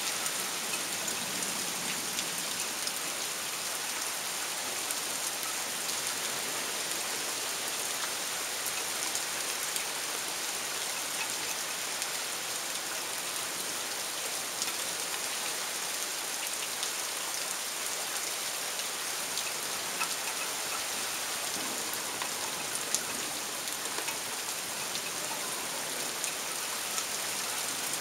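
Heavy rain falling in a steady, even hiss, with scattered sharp ticks of drops striking nearby surfaces.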